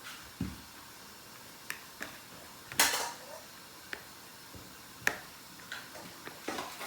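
Scattered clinks and knocks of kitchenware, dishes and pots, about half a dozen sharp hits, the loudest about three seconds in.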